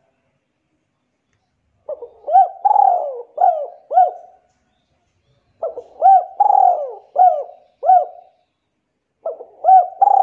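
A bird cooing: a phrase of several short coos that each rise and fall in pitch, repeated three times about every three and a half seconds, starting about two seconds in.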